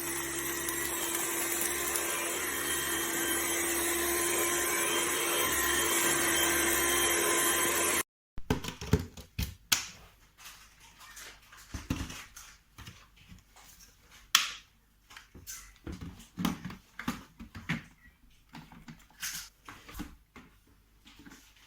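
Cordless stick vacuum cleaner motor running steadily with a constant whine for about eight seconds, then stopping abruptly. Scattered light clicks and knocks follow.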